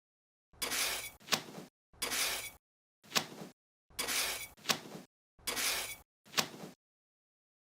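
A quick series of short scraping bursts, each with a sharp click or clink of small hard parts, about eight in all, cut apart by moments of dead silence.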